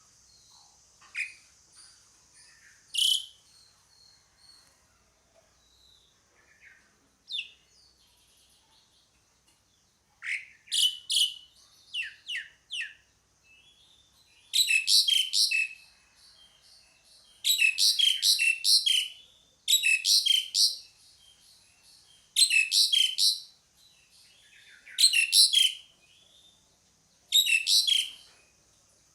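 Asian pied starling (jalak suren) calling. A few scattered single notes come first. From about ten seconds in it gives loud chattering phrases of rapid notes, each about a second long, repeated every two to three seconds over a faint steady high hiss.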